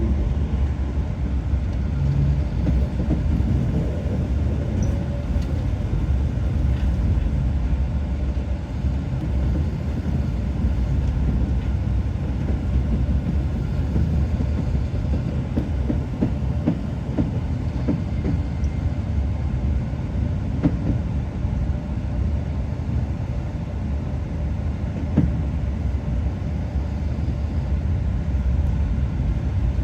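Passenger train running along the track: a steady low rumble with a few faint knocks.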